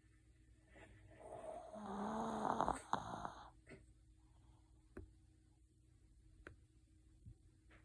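A sleeping dog snoring: one long snore starting about a second in and lasting about two seconds, followed by a few faint clicks.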